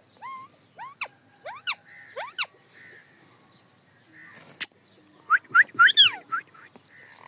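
Parrot making a series of short whistled calls that mostly sweep upward in pitch. A sharp click comes about two-thirds of the way through, then a quick cluster of louder calls ends in one longer call that falls in pitch.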